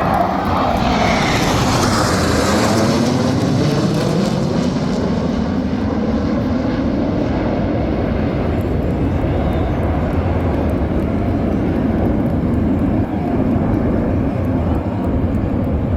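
Jet aircraft of the Black Eagles aerobatic team, KAI T-50B trainers, passing overhead. A loud jet roar with a high, hissing edge peaks a second or two in and sweeps down in pitch as it goes by, then fades to a lower, steady rumble.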